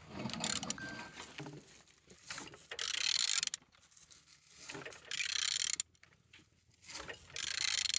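Removed car engine being turned over by hand at the crankshaft, in about four bursts of mechanical noise a second or so long with pauses between. The engine turns freely, not seized.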